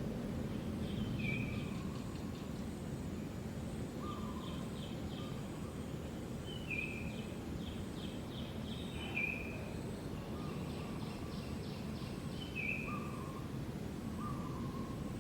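Steady low background rumble with short high chirps recurring every second or two.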